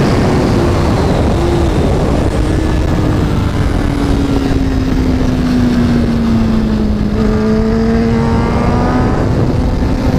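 Kawasaki ZX-10R's inline-four engine at speed on track, heard onboard under heavy wind rush. The revs sag slowly for most of the stretch, then climb again near the end as the bike is driven back out.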